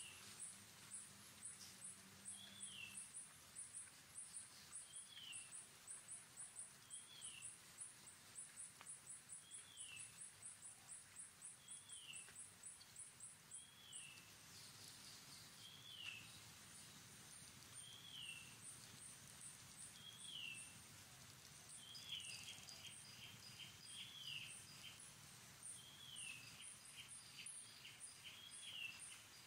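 Faint outdoor background: a bird repeating a short, falling chirp about every second and a half, over a fast, high ticking that runs steadily for the first half and then comes and goes.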